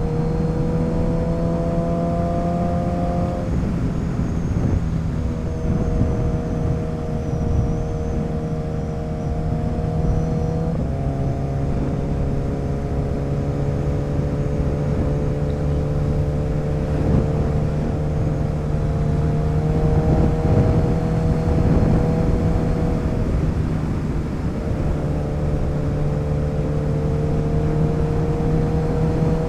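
Motorcycle engine running under way with wind rush. The engine note climbs gradually and several times breaks off and drops back to a lower pitch before climbing again.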